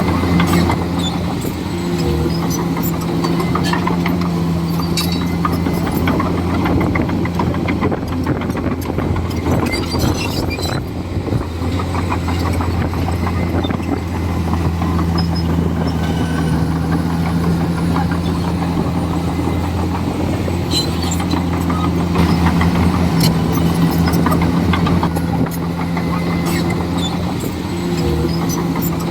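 Komatsu D41E bulldozer's diesel engine running under changing load. Its steady tone fades out and comes back twice, with scattered clicks and clanks over it.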